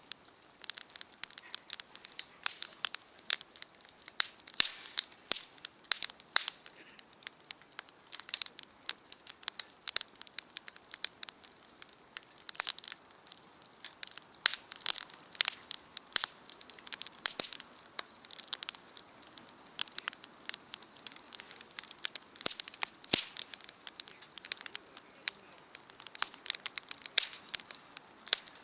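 Wood fire crackling and popping in a small campfire stand: many irregular sharp snaps, several a second.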